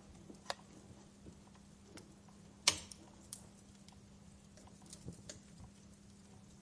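Wood fire in a fireplace crackling, with scattered sharp pops and one loud pop just before the middle. A faint steady low hum runs underneath.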